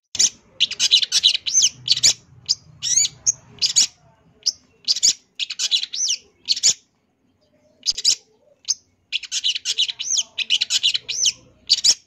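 Long-tailed shrike (cendet) singing its mimicking 'isian' song: rapid runs of short, high chattering and sweeping notes in bursts, broken by brief pauses about four and seven seconds in.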